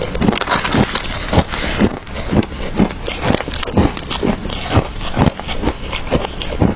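Shaved ice being bitten and chewed close to the microphone: a dense run of irregular crunches and sharp cracking snaps, several a second.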